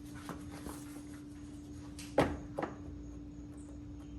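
A few scattered knocks and clunks of hands working a stuck oil filter loose on a John Deere E100 lawn tractor. The loudest is a sharp knock a little past two seconds in, followed by a smaller one, over a steady hum.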